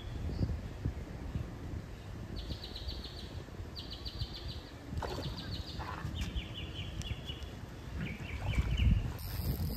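A bird calling in a series of short, rapid trills, about six of them from a couple of seconds in, the later ones lower in pitch, over a low rumble of wind on the microphone.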